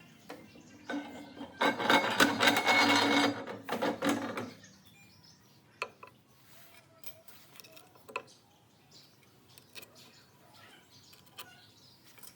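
About three seconds of loud, dense workshop tool noise with a faint steady hum, starting a second and a half in and stopping abruptly, followed by scattered light clicks and knocks of metal parts being handled.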